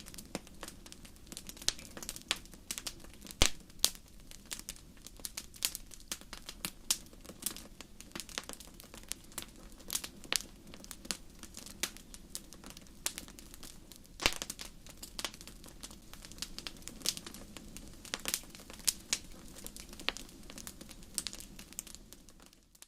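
Campfire crackling: irregular sharp pops and snaps over a low, steady noise of the flames, with a few louder pops, one about three seconds in and another about fourteen seconds in.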